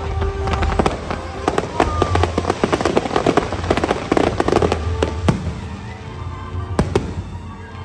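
Aerial fireworks bursting in a rapid, dense run of bangs and crackles that thins out near the end, with a low rumble underneath and music playing along.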